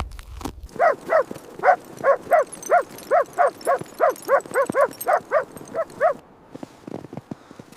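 A husky barking over and over in quick succession, about three barks a second, then stopping.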